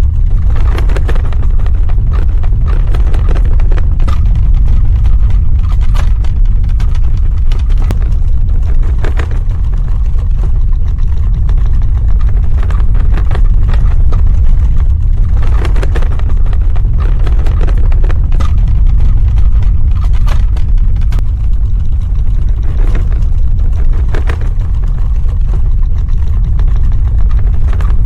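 Earthquake rumble: a deep, continuous rumbling with scattered crackles and rattles over it, swelling up now and then.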